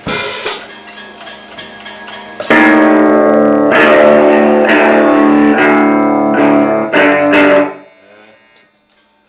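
Electric guitar playing: soft notes at first, then loud sustained chords about two and a half seconds in, struck again a few times and stopped short near the end.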